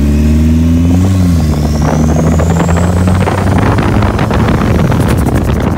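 Turbocharged Honda four-cylinder engine of a homemade kart running under way, its pitch rising slightly about a second in and then easing off, with wind and road noise. A faint rising whistle runs through the middle.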